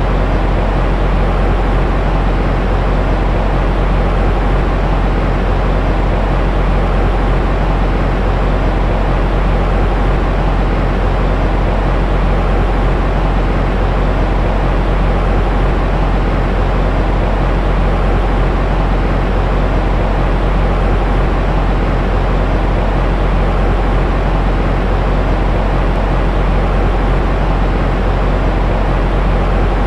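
Steady, unchanging white-noise sleep track for soothing a baby, heavy in the low end and dull in the treble, with a faint steady hum in it.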